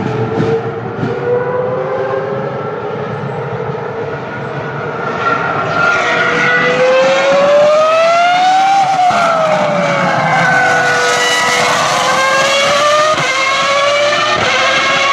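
Ferrari race car engine at high revs, its pitch climbing and growing louder, then falling away about nine seconds in. It then climbs again, with quick gearshifts near the end.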